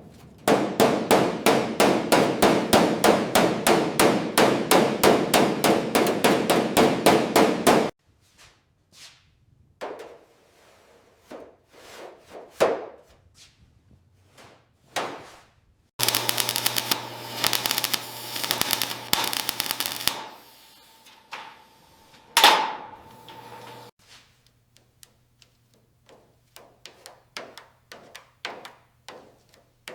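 Hammer striking metal: quick runs of about four blows a second, then sparser single strikes, some with a ringing note. One loud ringing blow comes about two-thirds of the way through. The sound cuts abruptly between several short clips.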